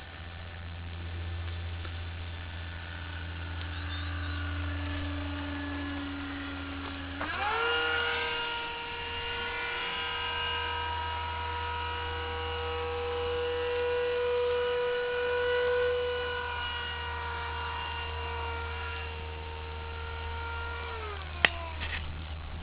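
Electric ducted fan of a radio-controlled model jet whining. About seven seconds in, the pitch jumps sharply up as the throttle is opened. It holds high, then falls back near the end, over a steady low hum, with a single sharp click just before the end.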